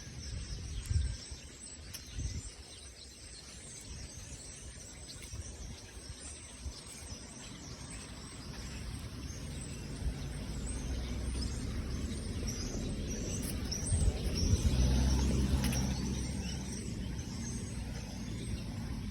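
A flock of birds chirping in a tree, many short high calls overlapping. A low rumble builds in the second half and is loudest near the end.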